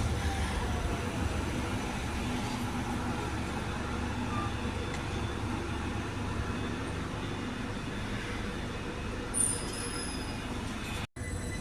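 Passenger train running at a station platform: a steady rumble of wheels on rail with thin, steady high whining tones over it. The sound cuts out for a moment near the end.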